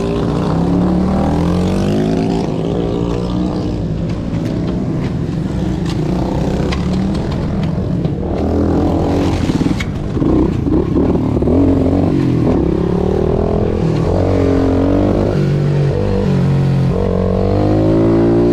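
Pit bike engine running hard on a race track, its pitch repeatedly rising and falling as it accelerates, shifts gear and backs off for corners.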